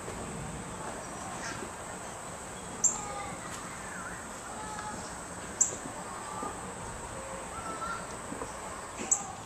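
Outdoor background with faint bird calls, and three short, sharp high chirps about three seconds apart.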